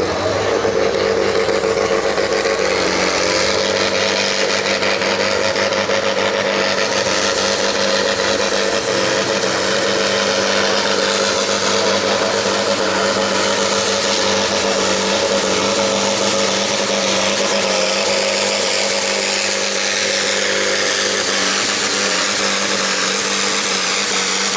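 Farm tractor's diesel engine running flat out under load as it pulls a sled in a Farm Sport class tractor pull. A steady loud drone carries a thin high whine that rises over the first few seconds and then holds.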